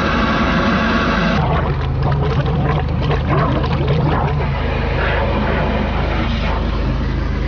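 High-pressure drain jetter's engine running steadily while water rushes and splashes through the sewer pipe being flushed. A denser, tone-rich layer over it stops abruptly about a second and a half in.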